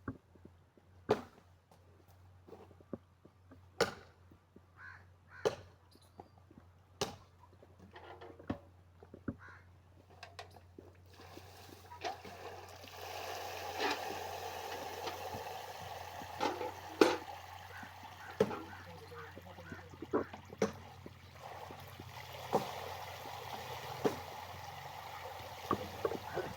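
Scattered sharp knocks, then from about halfway a steady rush of water running, likely being filled into a vessel, with more knocks on top.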